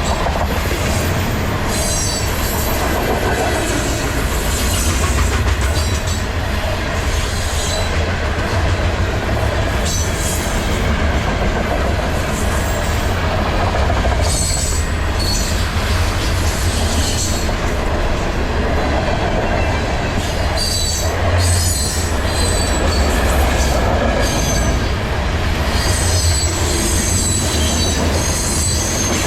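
Canadian Pacific freight train rolling past: a steady rumble and clatter of steel wheels on rail, with high wheel squeal coming and going several times.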